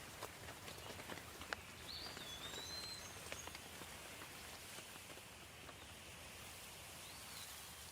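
Soft rain falling steadily, with scattered individual drops ticking in the first few seconds. A bird gives a short whistled call about two seconds in and again, fainter, near the end.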